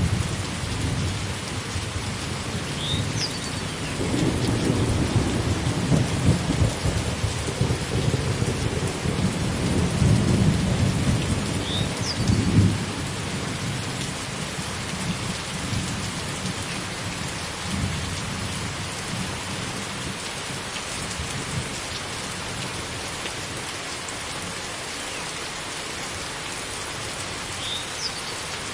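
Steady heavy rain with rolling thunder rumbling through the first half, loudest from about four to thirteen seconds in, then dying away to rain alone. A short high chirp sounds three times over the rain.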